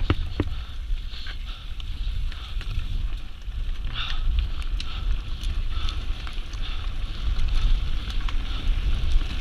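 Wind rumbling on the microphone during a downhill mountain bike run, with scattered sharp knocks and rattles from the bike, the loudest knock right at the start.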